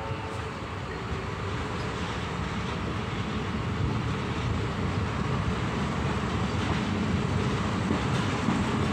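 Passenger train heard from inside a carriage as it pulls out of a station and picks up speed: a steady rumble of wheels and running gear that grows slowly louder.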